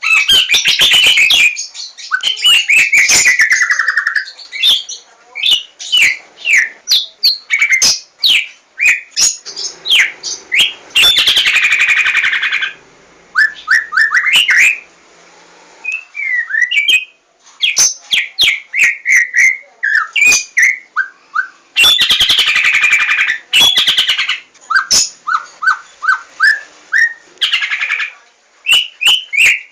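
White-rumped shama (murai batu, Javan 'larwo' type) singing a fast, varied song: rapid sharp clicking notes and sliding whistles, broken twice, about a third of the way in and again about three quarters in, by stretches of harsh buzzy chatter.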